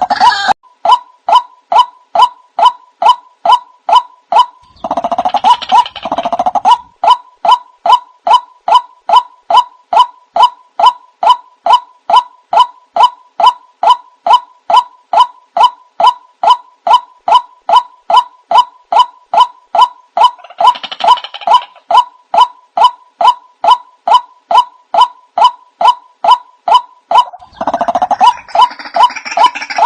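White-breasted waterhen call used as a lure: a long run of short, even notes, about two or three a second, broken by fuller, harsher bursts of calling about five seconds in, about twenty seconds in, and near the end.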